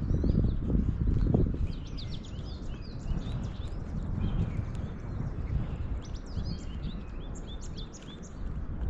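Small birds chirping in quick, overlapping short notes, over a low steady rumble of background noise that is loudest in the first second or so.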